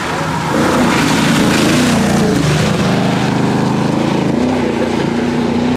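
Historic rally car's engine running hard as the car drives past close by, its pitch rising and dipping. The sound cuts off suddenly near the end.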